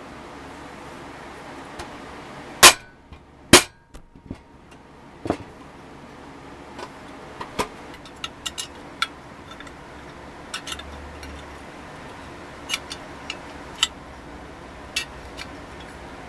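Sharp clicks and taps of small hard parts being handled: two loud snaps close together about three seconds in, then scattered lighter taps over a steady low hum.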